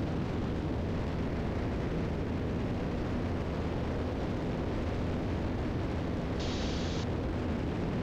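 Cabin drone of a 1981 Piper Seneca III's twin piston engines and propellers at climb power, steady and even. A short burst of hiss comes about six and a half seconds in.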